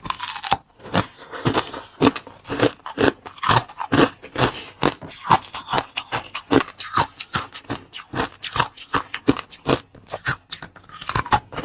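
A person eating close to the microphone: crisp crunching and crackling bites, followed by steady chewing, several crunches a second.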